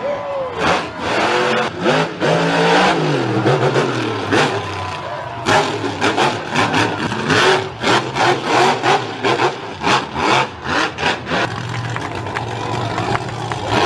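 Monster truck engine revving hard, its pitch rising and falling again and again, broken by many short sharp bursts in quick succession, most of them from about six to eleven seconds in.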